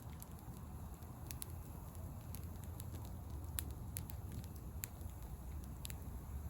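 Wood bonfire crackling, with sharp pops about once a second over a low steady rumble.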